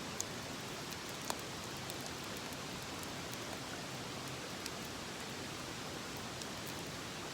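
Steady rushing of a mountain stream, with a few faint sharp clicks, the two clearest within the first second and a half.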